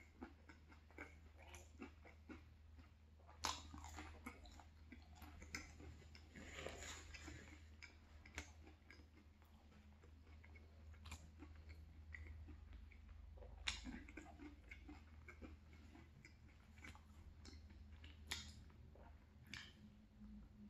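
Quiet, close-miked chewing of saucy fried chicken 65, with scattered sharp mouth clicks; the loudest come about three and a half seconds in and around fourteen and eighteen seconds in.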